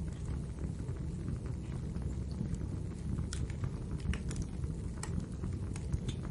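Fire crackling in a fireplace: a steady low rumble of burning with scattered sharp pops and snaps, several of them coming close together in the second half.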